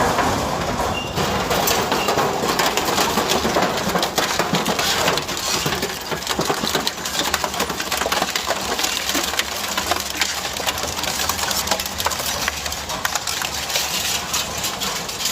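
Industrial metal shredder tearing through metal: continuous grinding and crunching with many irregular sharp cracks and snaps.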